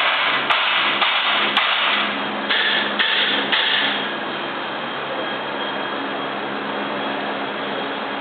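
Turbocharged SR22DET four-cylinder engine through a Tomei Expreme titanium exhaust: several short, sharp bursts over the first four seconds, then a steady idle.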